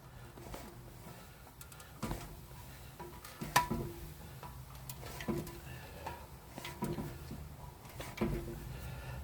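Scattered light metallic clinks and taps of tools and metal parts being handled, one sharper ringing clink about three and a half seconds in, over a faint steady hum.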